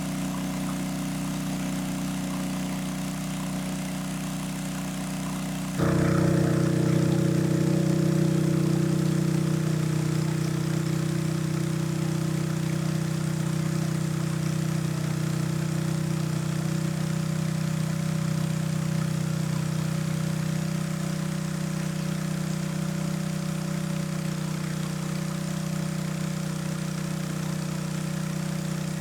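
A small engine running steadily. About six seconds in it suddenly gets louder and changes pitch, then holds at that higher setting.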